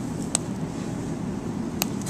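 Steady low background hum with two short, sharp clicks about a second and a half apart.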